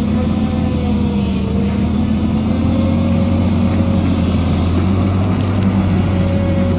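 Heavy diesel excavator engine running steadily: a low, even hum with a faint higher tone that wavers slightly in pitch.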